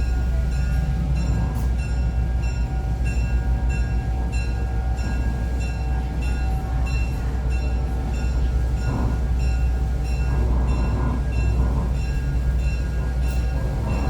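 Heritage excursion train running with a steady low rumble, joined by a regular high-pitched ticking or ringing about twice a second.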